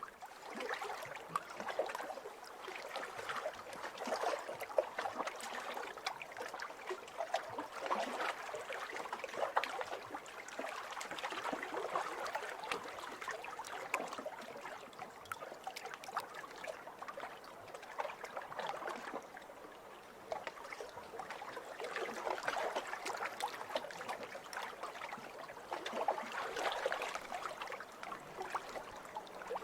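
Small waves lapping over a pebble shore, the water trickling and clicking through the stones as each wash swells and eases every few seconds.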